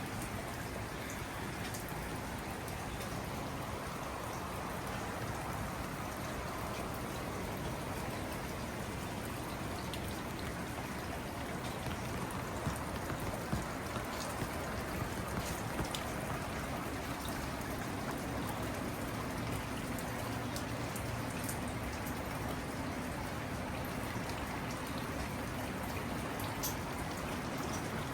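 Steady rain falling on a garden, a continuous patter with scattered louder drops hitting leaves and surfaces close by.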